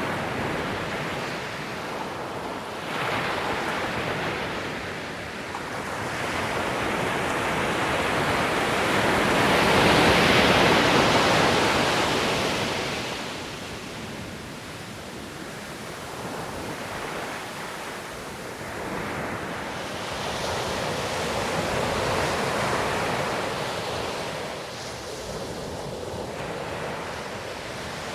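Ocean surf breaking on a beach: a steady hiss of waves that swells and ebbs every few seconds, loudest about ten seconds in.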